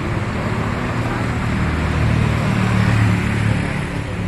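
A motor vehicle engine running with a steady low hum, growing louder toward about three seconds in and then easing off.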